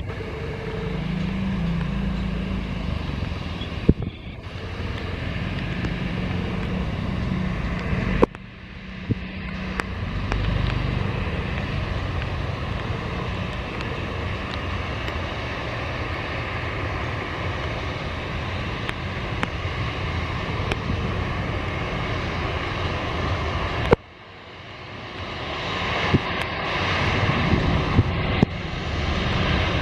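Airliner takeoff noise: a steady rush of engine and air noise, broken abruptly three times. After the last break, about four-fifths of the way in, it builds louder.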